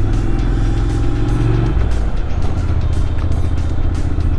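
Motorcycle engine running under way on a winding road, its steady note dropping about two seconds in, with wind noise on the helmet microphone.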